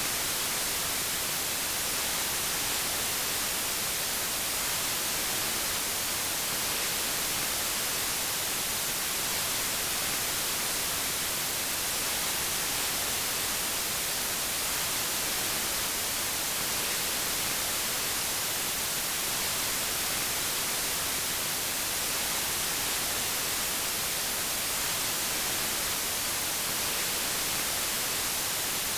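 Steady white noise: an even, unbroken hiss, strongest in the highs, with no change in level.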